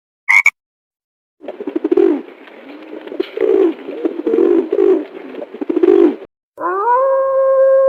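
A pigeon cooing, a run of repeated rolling coos, after one short frog croak at the start. Near the end a different, steady pitched animal call begins.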